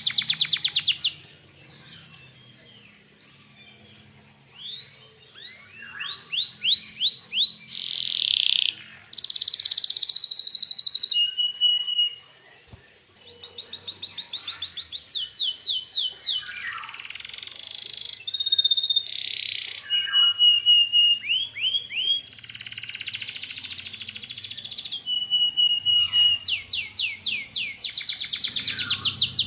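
Domestic canary in full song: rapid trills of repeated notes and sweeping whistles high in pitch, in phrases with short gaps, after a quieter stretch near the start.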